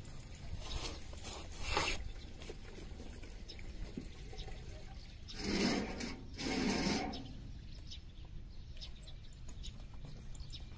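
Countryside ambience: scattered short bird chirps over a low steady rumble, with two louder noisy sounds back to back just past halfway.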